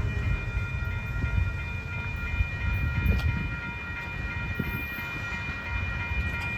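Train running on the rails: a steady low rumble with a few faint knocks, and a steady high-pitched ringing tone over it.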